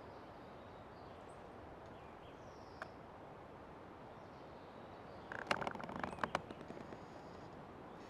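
An old tree creaking in the forest: a series of rapid, grating clicks a little after five seconds in, lasting about a second and a half. Under it is a steady background of forest hiss with a few faint bird chirps.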